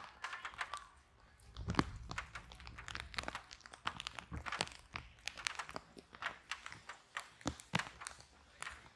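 Wood fire crackling in a fireplace: irregular sharp pops and snaps, several a second, with a brief low rumble of the flames about two seconds in.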